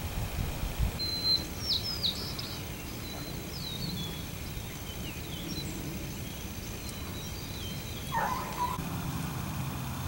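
Small birds chirping and whistling in short, scattered high calls over a steady low outdoor rumble. One lower, louder call comes about eight seconds in.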